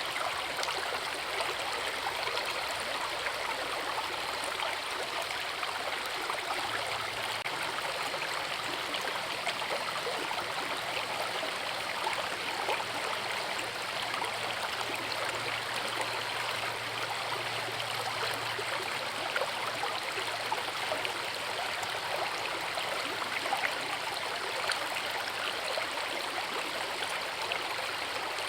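Forest river flowing: a steady, unbroken rush of water.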